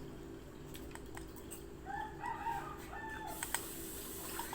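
A rooster crows once in the background, a pitched call of about a second made of several linked notes. A few light clicks are heard around it.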